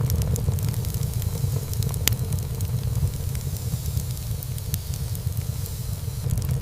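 Wood fire burning in a fireplace: a steady low rumble of flames with scattered sharp crackles and pops of burning wood, one louder pop about two seconds in.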